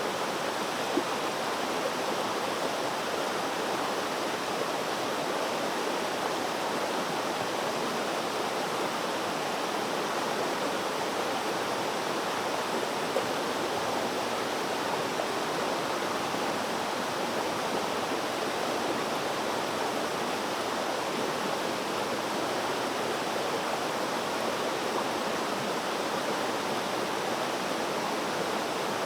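Flowing water: a stream or small cascade running with a steady rushing splash, with the odd slightly louder splash.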